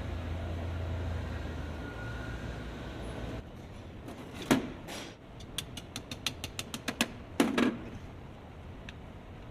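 A car's inside door handle parts being handled: a steady low hum, then after an abrupt change, a loud click, a quick run of about eight light clicks at around six a second, and another loud click.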